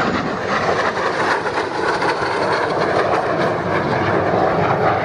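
A MiG-15 jet fighter's turbojet passing on a low display pass: a loud, steady rushing roar with a faint falling whine near the start.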